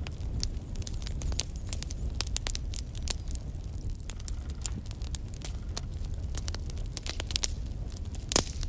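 Wood fire burning in a fireplace: a steady low rumble of flames with frequent irregular crackles and one louder pop near the end.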